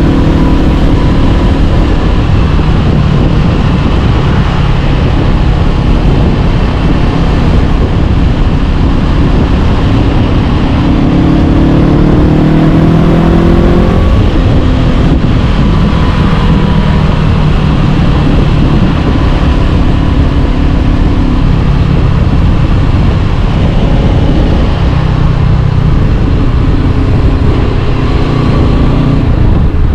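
Honda CB500X parallel-twin engine running through an Arrow Pro-Race exhaust while riding, over steady wind and road noise. The revs climb from about eleven seconds in and drop suddenly at about fourteen seconds, then hold and shift lower and higher through the rest.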